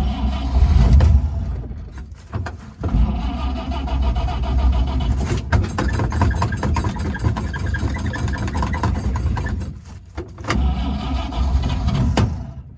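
1953 Chevrolet 3600 pickup engine being started: three runs of cranking and firing, the middle one several seconds long, with short breaks between. It won't keep running, which the owner puts down to the engine still not getting fuel.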